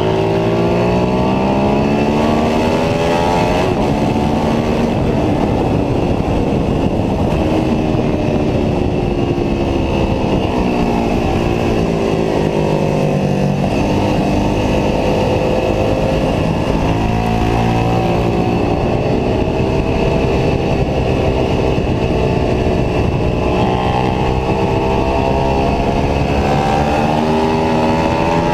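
Onboard sound of a Ducati 749S's L-twin engine at track pace. The revs climb and fall again and again as the bike accelerates through the gears and slows for corners, over steady wind rush.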